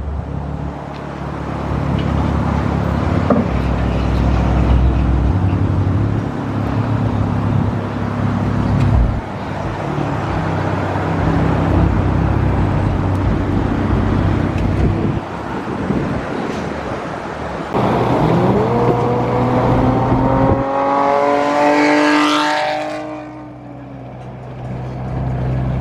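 Dodge Challenger V6 running through a freshly fitted straight-pipe exhaust, idling low and steady. Near the end it is revved once, the pitch climbing over a few seconds, then falling back to idle.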